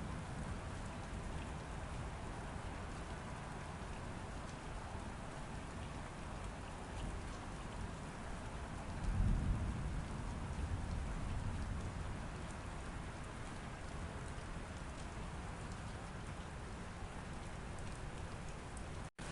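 Steady rain falling, with a low rumble of thunder swelling up about nine seconds in. The sound cuts out for an instant near the end.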